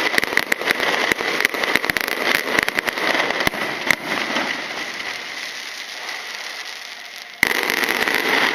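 Aerial fireworks going off in rapid, dense cracks and pops. These thin after about four seconds to a fading crackle, then a sudden loud new burst comes near the end.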